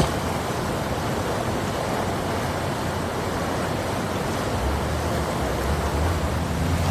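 Steady rushing noise of storm water, with a low rumble underneath that grows stronger about two-thirds of the way through.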